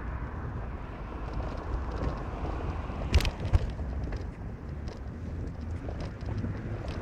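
Car driving, with a steady low road and engine rumble. Two sharp knocks come about three seconds in, half a second apart.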